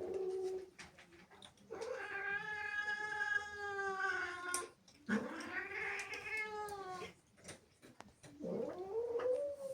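Domestic cat yowling angrily: long, drawn-out wavering caterwauls, three in a row after the tail of an earlier one, the last rising in pitch near the end.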